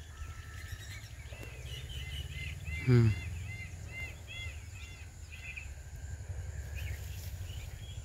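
A bird calling a short, arched note over and over, about two or three times a second, which fades out about halfway through, over a low steady rumble.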